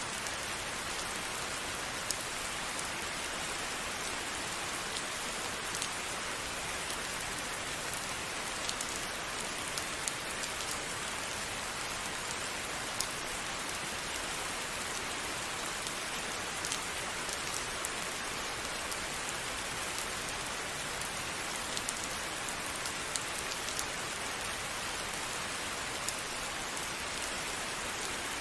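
Steady rain falling on a surface, a constant hiss with many small sharp drop ticks scattered through it.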